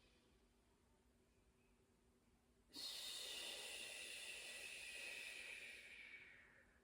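A long breath out through the mouth, coming in suddenly about three seconds in and fading away over about four seconds.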